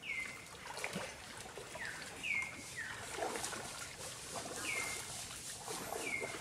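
A bird repeating a short call about six times, each note sliding down in pitch, over faint irregular water sounds from water buffaloes feeding with their muzzles in shallow water.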